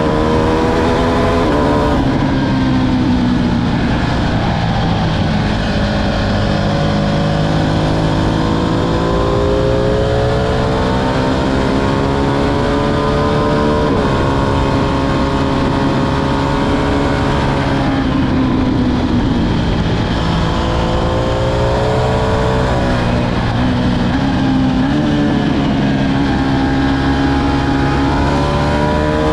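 Ducati Streetfighter V2's L-twin engine while riding, the revs climbing slowly and then dropping several times, about a second in, near the middle and toward the end.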